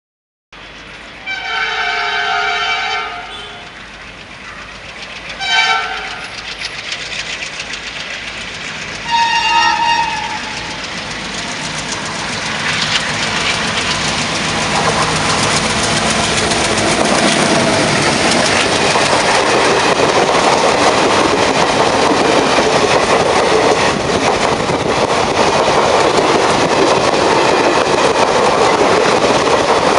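Diesel locomotive horn blown three times, a long blast, a short one and a third of medium length, as the train approaches. The passenger train then passes close by, its locomotive and coach wheels building to a loud, steady rumble and clatter over the rails.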